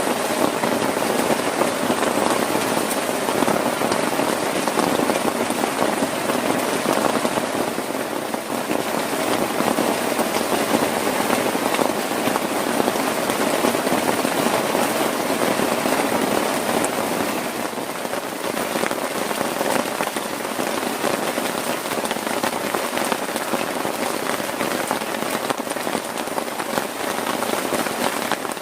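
Heavy rain falling steadily on a tent, with many individual drops ticking sharply.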